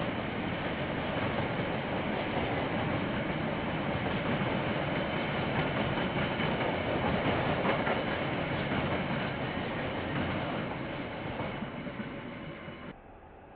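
KiwiRail train rolling past on the rails. It fades from about two thirds of the way through and cuts off suddenly just before the end.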